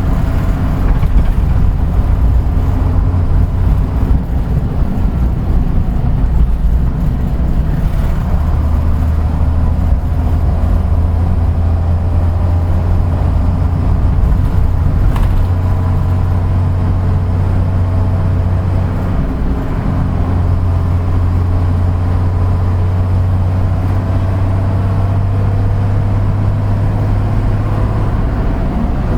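Route bus running on the road, heard from inside the cabin: a steady low engine drone with road noise, its pitch shifting a couple of times, around eight and twenty seconds in, as the engine speed changes.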